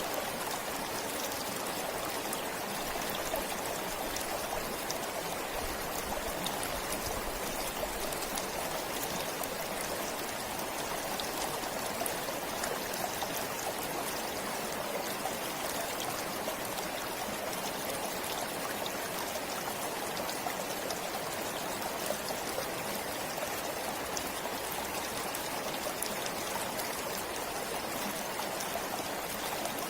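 Forest stream flowing steadily over stones, a continuous rushing and trickling with small splashes.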